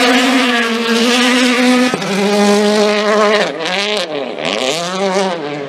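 Rally car engine at high revs passing, held steady with a brief break about two seconds in, then the revs dip sharply and climb back twice before easing off near the end.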